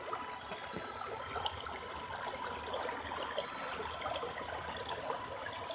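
Small creek flowing and trickling steadily.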